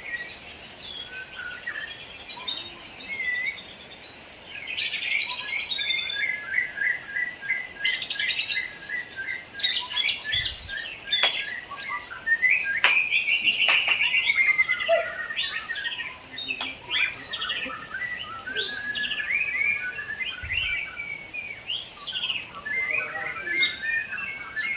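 Several caged songbirds singing over one another in rapid trills and chirps, with a brief lull about four seconds in.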